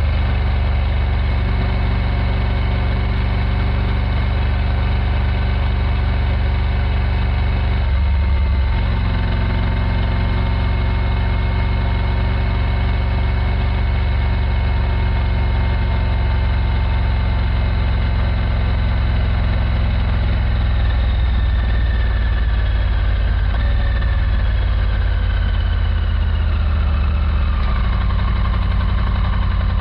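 Triumph Tiger 900 GT Pro's three-cylinder engine running on the road, with a change in its note about eight seconds in, and from about two-thirds of the way through its pitch falls as it slows.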